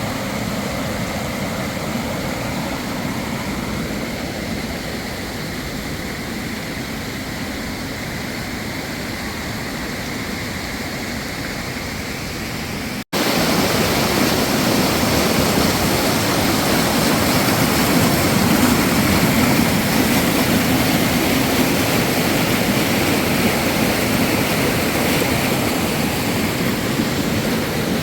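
Steady rush of flowing water from a hot-spring stream or cascade. It drops out briefly about halfway through and comes back louder.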